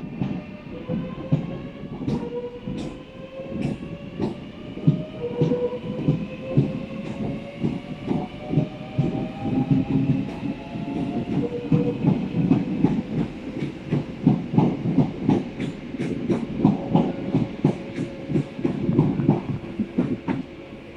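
Class 465 Networker electric multiple unit pulling away, its traction motors whining in several tones that rise in pitch again and again as it accelerates. Wheels knock over the rail joints throughout, the knocks coming faster as it speeds up.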